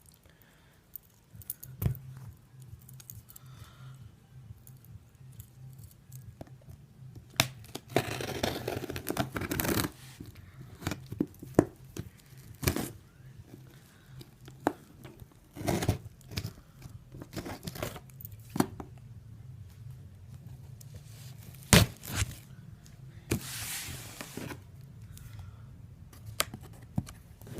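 Sneaker parcel and box packaging being torn and opened by hand: two stretches of tearing and rustling a few seconds each, among scattered sharp clicks and crinkles.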